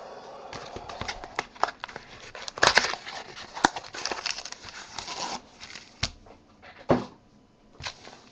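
Packaging of a sealed trading-card mini box being handled and torn open: irregular crinkling and tearing with sharp clicks and snaps.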